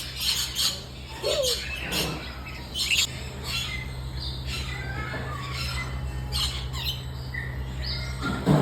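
Parrots squawking: short, harsh calls scattered through, the loudest near the end, over a steady low hum.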